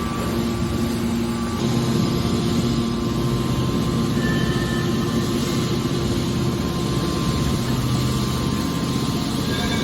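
Hydraulic scrap metal baler running, a steady machine hum with a constant low tone over a noisy wash.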